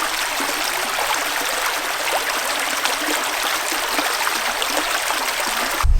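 A small woodland stream running: a steady rushing hiss of water that starts and stops abruptly.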